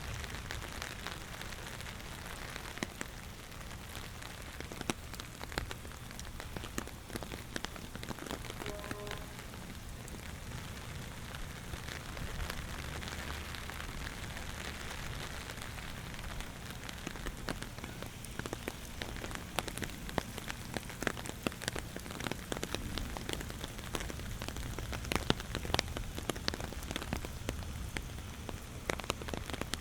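Steady rain falling, with many sharp, close drop hits ticking irregularly over the patter.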